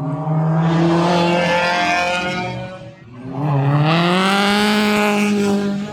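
Car engine revving hard under full acceleration. The note holds high, drops briefly about three seconds in as if at a gear change, then climbs again and holds.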